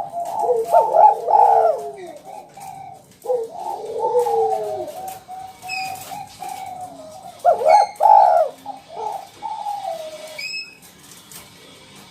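Spotted doves cooing in three bursts of repeated coo phrases, with the calls at times overlapping at two pitches.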